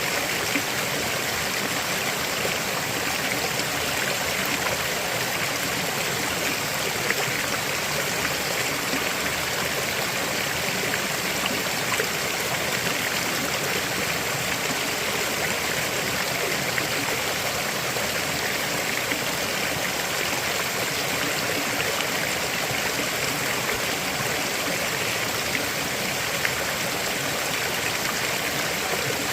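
River flowing steadily: a continuous, even rush of running water with no breaks.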